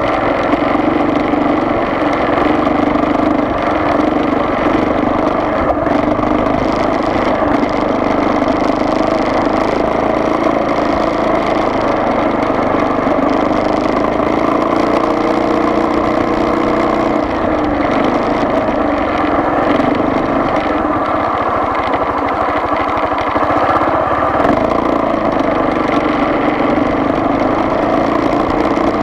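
Steady vehicle engine and road noise from a moving vehicle, running evenly at a constant pitch.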